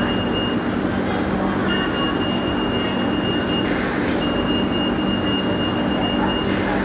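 Hong Kong Light Rail Phase III light rail vehicle running along the track: a steady rumble and low hum with a thin high whine that drops out and comes back a few times. There are two short hissing surges, one about halfway through and one near the end.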